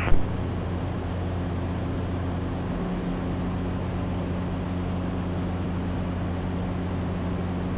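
Ikarus C42 light aircraft's engine and propeller running steadily in cruise, heard from inside the cockpit as an even low hum of several fixed tones under a wash of air noise.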